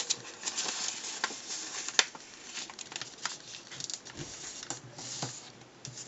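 A sheet of paper being folded and creased by hand: irregular rustling and crinkling with small crisp clicks, one louder click about two seconds in.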